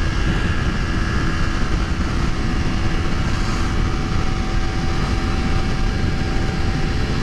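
Honda CBR250RR motorcycle engine running at a steady speed while cruising, with a dense low rumble under the steady engine note.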